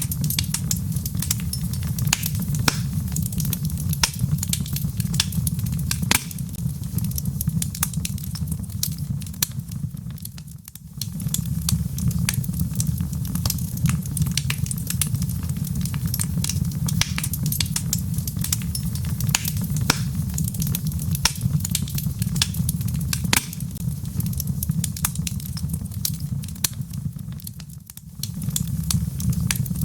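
Wood logs burning in a fireplace, crackling with frequent sharp pops over a steady low rumble. The rumble dips briefly twice, about a third of the way in and again near the end.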